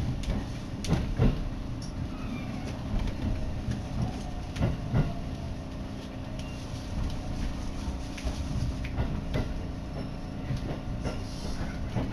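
Commuter train running, heard from inside the carriage: a steady low rumble and hum with irregular knocks and rattles.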